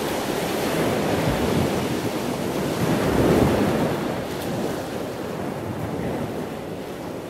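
Steady rush of ocean surf, swelling about three seconds in and easing off toward the end.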